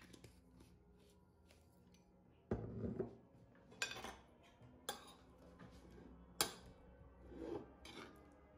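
A handful of sharp, irregular knocks and clatters, hard objects striking one another, over a low steady hum.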